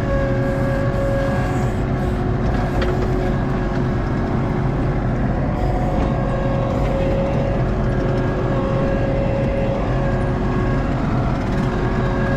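ASV RT-40 compact track loader's diesel engine running steadily under work, with a high whine that comes and goes.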